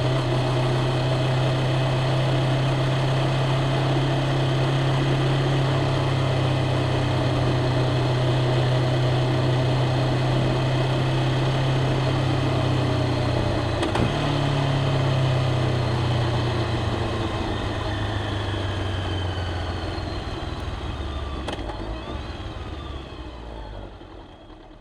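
Honda CBR500R's parallel-twin engine idling steadily at an even pitch, with one short click about halfway through; the sound fades out toward the end.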